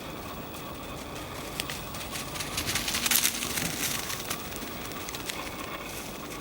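Footsteps crunching and crackling on the forest floor, loudest about halfway through, over a steady outdoor hiss.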